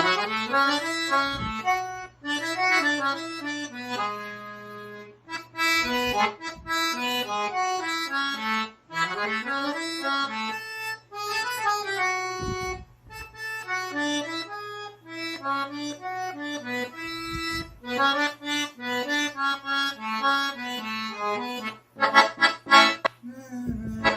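Accordion playing a forró melody at a slowed-down tempo, in stepwise runs up and down, with occasional simplified bass notes underneath.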